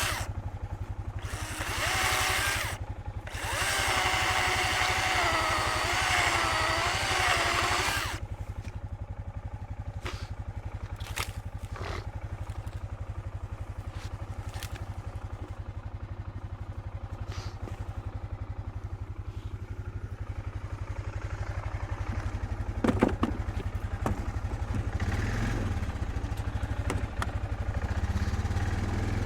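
A small engine idling with an even, fast beat, revved up and held under power for several seconds near the start, then settling back to idle, with a few sharp knocks later on.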